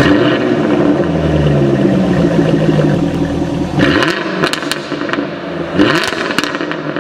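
Tata Hexa SUV's 2.2-litre four-cylinder diesel engine running, with its revs rising twice, about 4 s in and again about 6 s in. Sharp clicks come over the engine sound as the revs go up.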